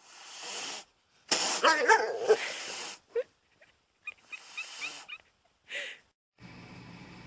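A pet animal making breathy, noisy sounds and short whining cries in several bursts. A steady low hum takes over from about six and a half seconds in.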